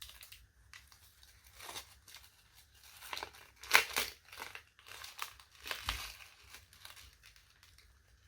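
Crinkling, rustling and tearing of the wrapping as a zongzi is unwrapped by hand, in irregular bursts, the loudest a little under four seconds in.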